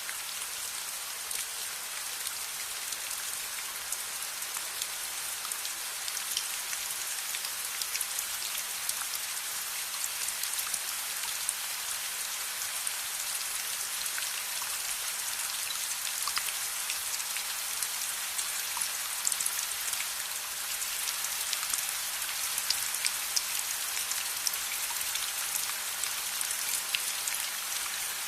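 Steady rain falling, a dense even hiss with many small sharp drop ticks scattered through it.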